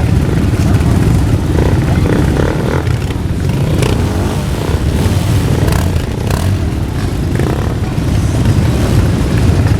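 Motorcycle engines running together in a steady low rumble as a group of bikers sets off.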